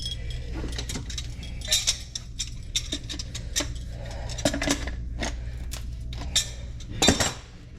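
Irregular clattering and knocking as drain fittings and tools are handled: a string of sharp clicks and clunks, loudest about seven seconds in, over a steady low hum.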